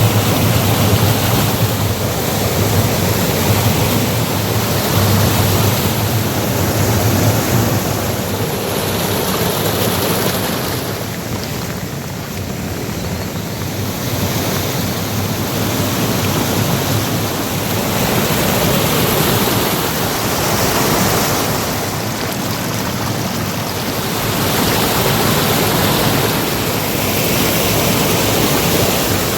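Steady rushing of water, loud and unbroken, rising and easing slowly every several seconds.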